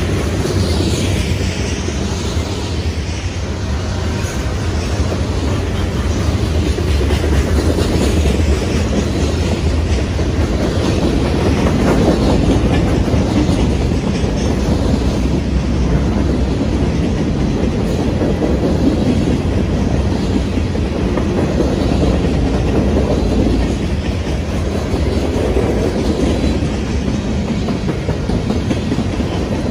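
BNSF train rolling past close by: a steady, loud rumble of cars with the clatter of wheels over the rails.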